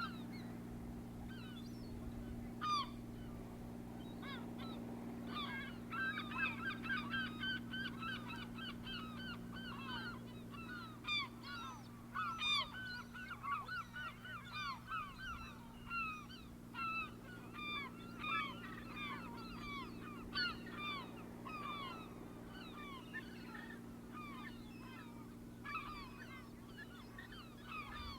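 A flock of birds calling: a few scattered calls at first, then from about six seconds in a dense chatter of many short, overlapping, downward-sliding calls that thins out towards the end. A steady low hum runs underneath.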